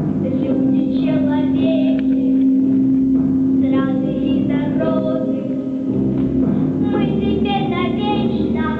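Children singing a song in phrases over a steady instrumental backing track.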